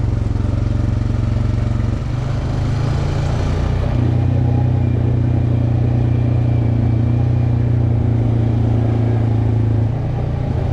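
Off-road vehicle engine running steadily on a trail ride. The engine note wavers and dips about two seconds in, then holds steady and louder, and eases off briefly near the end.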